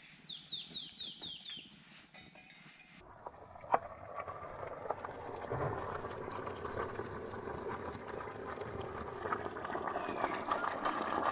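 A bird calls a quick run of six high notes, each falling in pitch. Then comes a sharp click, and a steady crackling hiss that slowly grows louder.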